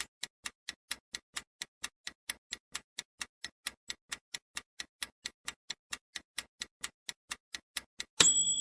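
Clock-like countdown timer ticking, evenly at about four to five ticks a second, timing the pause to answer a quiz question. Near the end a bright, ringing ding marks the time running out.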